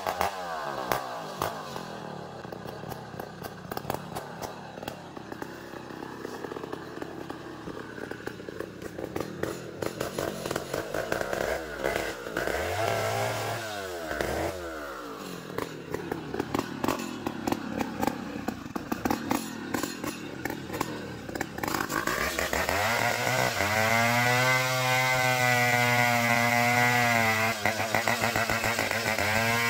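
Chainsaw engine working a log of ulin (Bornean ironwood). It drops from high revs at the start and runs lower and unevenly, with a brief rev-up and fall about halfway. From about 22 s it climbs and holds a steady high rev, as under full throttle in the cut.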